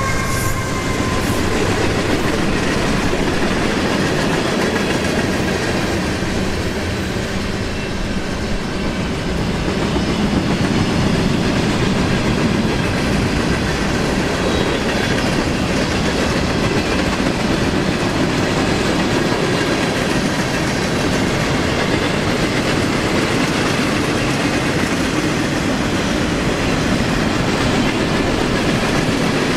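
Cars of a CSX mixed freight train rolling past on steel wheels, a steady, unbroken rolling noise.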